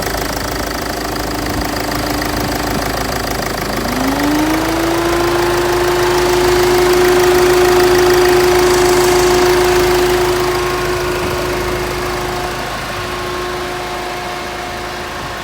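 Range Rover Evoque engine idling with the air-conditioning compressor running during a refrigerant recharge, its rebuilt clutch coil holding the compressor engaged. A steady hum dips and then rises in pitch about four seconds in, and holds steady after that.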